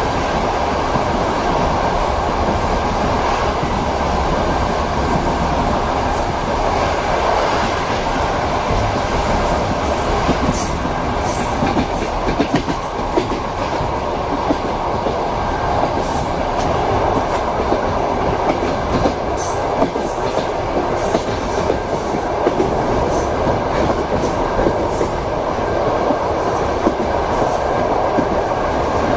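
Steady rumble of a passenger train heard from inside a compartment, with the wheels knocking and clicking over the rail joints. The clicks become more frequent from about ten seconds in.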